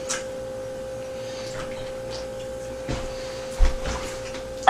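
A steady electrical-sounding hum with a few faint clicks and a short low thump about three and a half seconds in.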